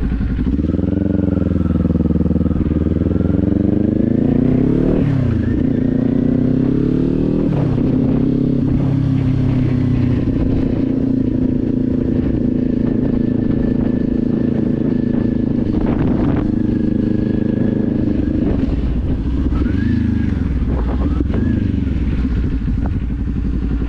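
Kawasaki Z400's parallel-twin engine pulling up through the gears: its pitch climbs and drops sharply at gear changes about five and seven and a half seconds in. It then holds a steady cruise and eases off briefly near the end, with wind noise on the microphone.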